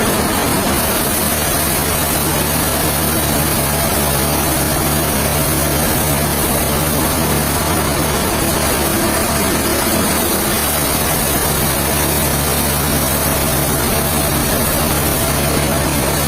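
Sawmill machinery running steadily: a low engine hum under a loud, even hiss, with no change in speed or load.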